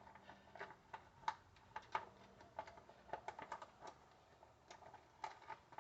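Faint, irregular clicks and light taps of hand work on a small engine's air filter housing, as its cover and fasteners are worked loose.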